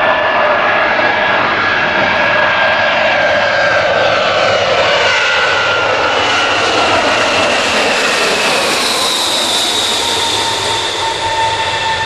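Boeing C-17A's four turbofan jet engines running loud and steady, a roar overlaid with whining tones that slide slowly down in pitch; about nine seconds in, a new, higher whine comes in.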